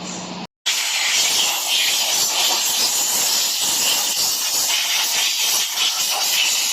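Loud, steady hiss, like rushing air or spray, starting after a brief silent break about half a second in.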